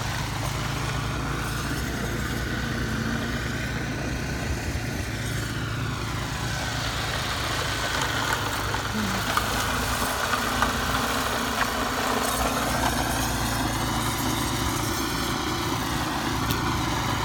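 Snowblower engine running steadily while snow is being cleared.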